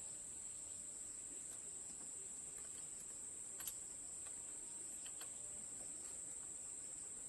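A faint, steady high-pitched hiss, with a few faint light clicks scattered through it.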